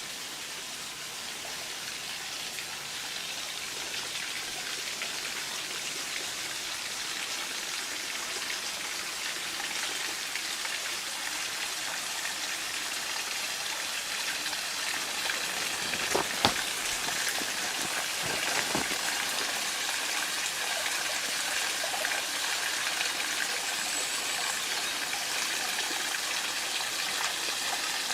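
Steady rush of water, growing slightly louder through the stretch, with a couple of sharp clicks a little past the middle.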